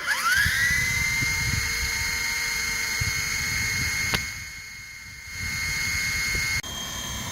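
WLToys V911 micro RC helicopter's electric motors spooling up to a high, steady whine. The whine dips briefly about four seconds in with a click, then rises again.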